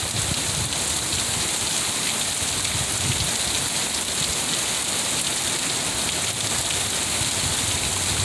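Heavy rain pouring down steadily, an even hiss of rain on surfaces.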